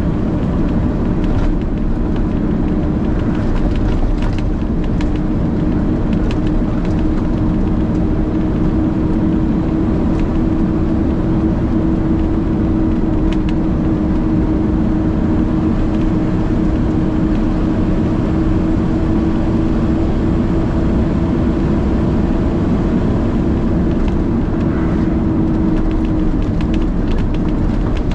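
Heavy truck's diesel engine running steadily at cruising speed, heard from inside the cab, with road noise and a few light rattles.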